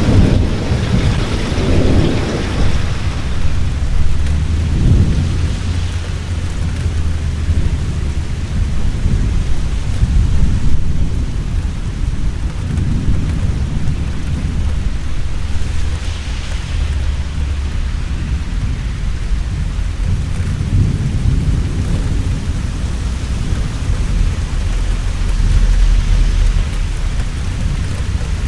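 Thunderstorm: heavy rain falling steadily under continuous deep thunder rumbles, with the rumble swelling near the start, around five seconds in and again near the end.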